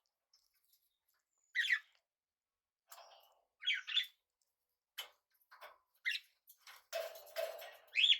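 Small pet parrots giving short chirps and squawks, a few separate calls with pauses between, then a busier burst of chattering near the end.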